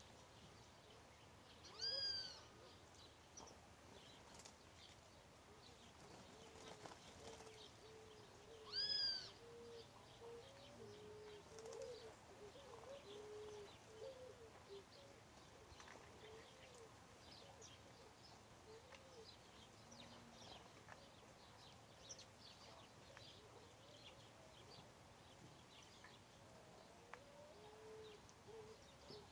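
Birds calling: two loud arched calls with several overtones, about seven seconds apart, over many soft, short low notes and faint high chirps.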